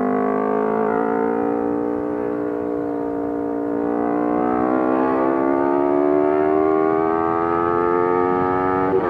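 Sport motorcycle engine running at cruising speed, its steady note rising slowly in pitch as the bike gently gains speed, over low wind rumble.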